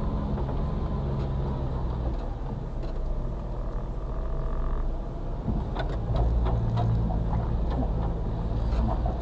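Suzuki Carry kei truck's 660cc engine, heard inside the cab, running steadily as it crawls off-road. It eases off about two seconds in and pulls harder again a few seconds later, with a run of knocks and rattles from the cab and suspension.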